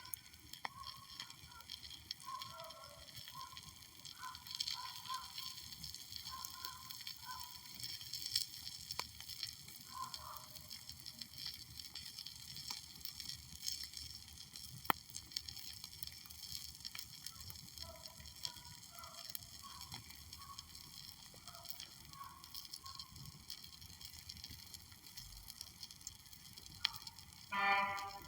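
Wood fire crackling with a steady hiss and a few sharp pops. Faint, muffled voice-like fragments come and go throughout, and a short, louder honking call sounds near the end.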